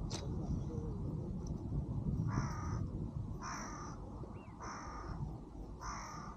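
A crow cawing four times, about one harsh caw every second or so, starting about two seconds in, over a steady low outdoor rumble.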